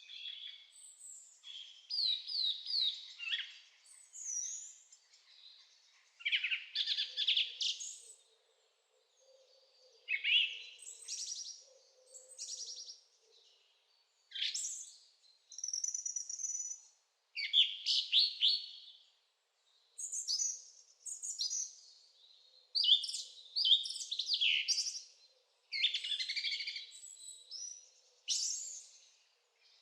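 Songbird singing short, high, warbling phrases one after another, each a second or two long, with brief pauses between them.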